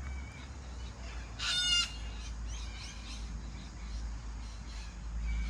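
A single loud bird call, about half a second long, about a second and a half in, followed by fainter short chirps, over a steady low rumble.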